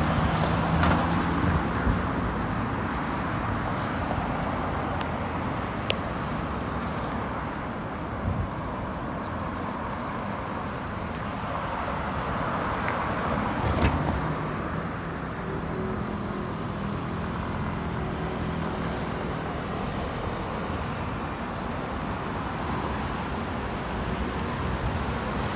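Road traffic passing on a busy street: cars and buses going by with a steady hum of engines and tyres. There are a couple of sharp clicks, one about six seconds in and a louder one about fourteen seconds in.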